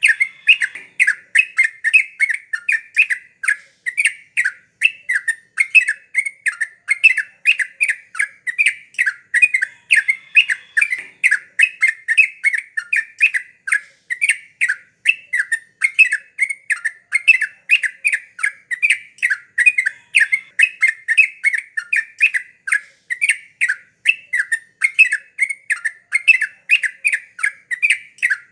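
Sooty-headed bulbul (trucuk) singing a fast, unbroken series of short chattering notes, several a second.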